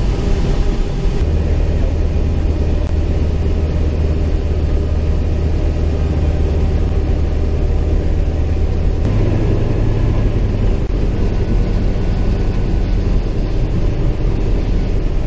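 CAC Winjeel's Pratt & Whitney R-985 Wasp Junior radial engine and propeller running steadily, heard from on board the aircraft. Its low drone steps up slightly in pitch about nine seconds in.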